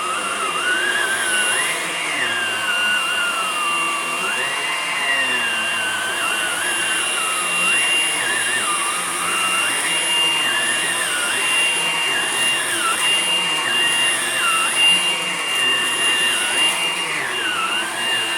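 Hoover Blade+ cordless stick vacuum running steadily, with a constant high motor whine and a second, lower whine that wanders up and down in pitch.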